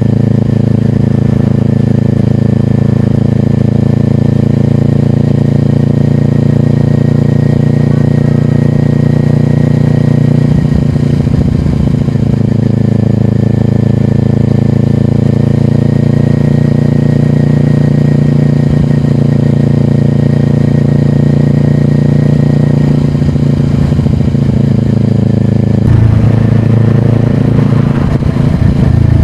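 Kawasaki Ninja 400 parallel-twin engine with a slip-on exhaust, running at a steady engine speed, with brief low rumbles about a third of the way in and again near the end.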